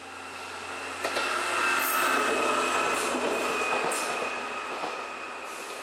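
Passenger train passing over the level crossing, growing loud about a second in, peaking around two seconds and fading. Its wheels give a steady high squeal, with a few sharp clacks as the wheels pass.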